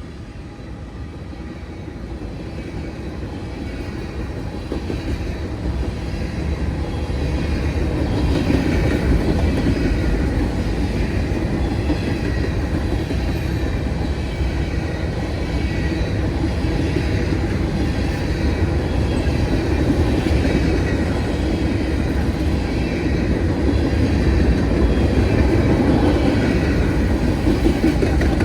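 A freight train of empty grain hopper cars rolls past, its wheels clacking steadily over the rail. The rumble builds over the first several seconds and then holds loud.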